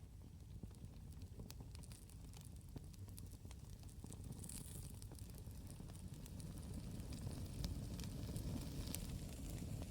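Campfire crackling: scattered sharp pops and snaps over a low steady rumble that grows slowly louder.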